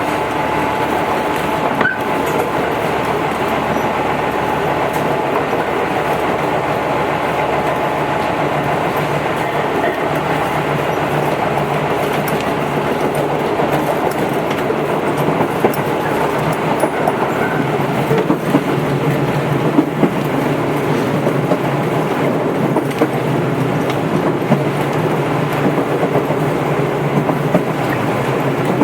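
Tobu 8000 series electric train running between stations, heard from inside the car: a steady running hum with motor tones, and short clicks of the wheels over rail joints that come more often in the second half.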